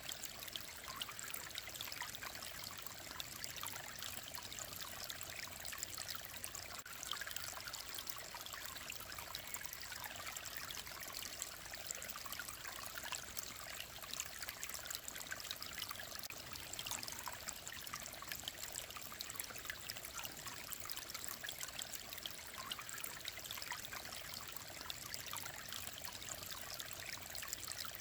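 Mountain stream running steadily: a continuous babble and trickle of clear water.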